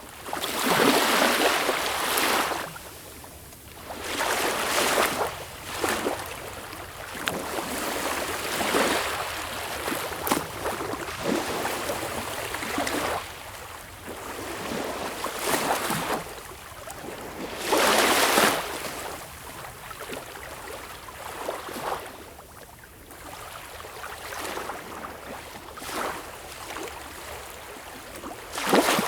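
Sea waves washing in and breaking, an irregular rush of surf that swells and ebbs every few seconds, with the biggest surges about a second in and around eighteen seconds.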